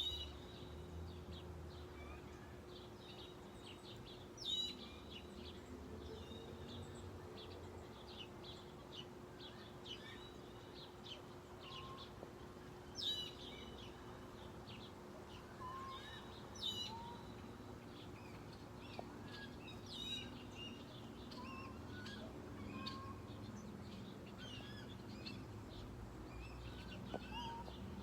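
Several songbirds chirping and calling, faint, with a few louder calls standing out every few seconds and some lower whistled notes. A steady low hum runs underneath.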